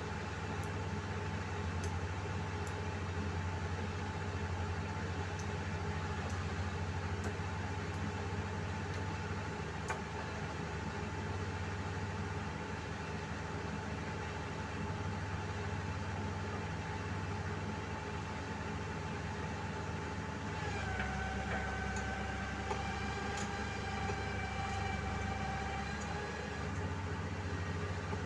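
Heavy diesel machinery engine running steadily, with a whining tone above the hum that drops slightly in pitch about 21 seconds in.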